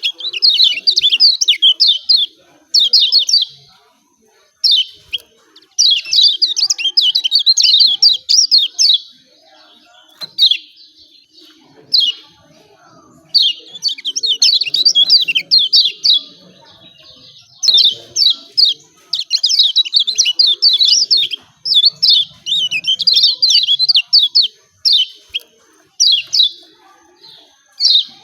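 Kecial kuning (lemon-bellied white-eye) giving its 'ciak ciak' call: rapid runs of high, sharp chirps in bursts of one to three seconds, broken by short pauses.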